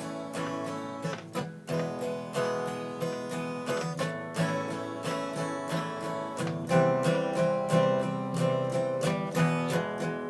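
Acoustic guitar strumming a steady chord progression, about two strums a second: the instrumental introduction to a song.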